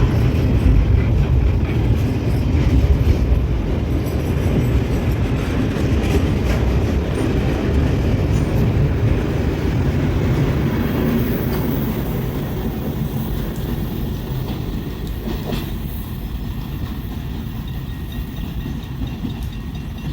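Loaded freight train's cars rolling past, wheels clacking over the rail joints. The rumble slowly fades over the second half as the train moves away.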